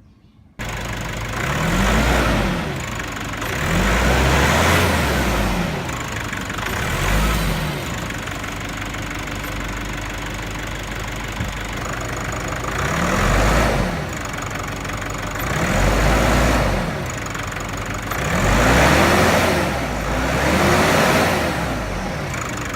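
Nissan Navara NP300's diesel engine idling and being blipped about seven times, its note rising and falling with each rev, as the air-intake sound is tested through the air filter.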